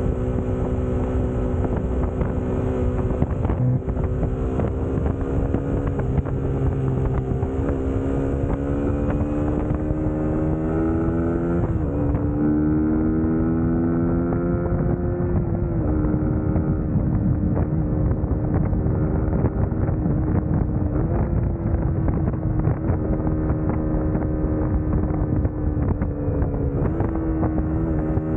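Suzuki GSX-S150's single-cylinder engine running under way, its note climbing slowly as it pulls, then dropping suddenly at gear changes a little before halfway and again soon after, and holding fairly steady to the end. Wind rumbles on the microphone underneath.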